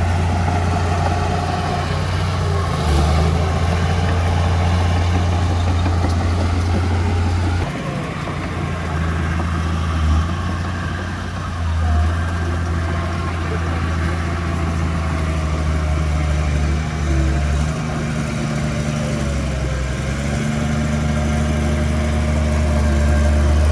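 Heavy diesel construction machine engine running steadily with a low, even hum, dipping briefly about eight seconds in.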